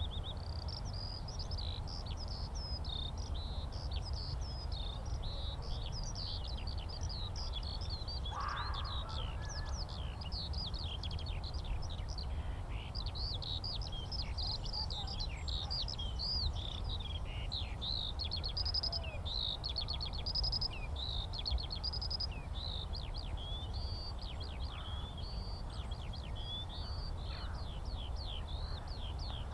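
Eurasian skylark song: one long, unbroken stream of rapid, varied trills and chirps. A steady low rumble runs underneath, and a single lower call comes about eight seconds in.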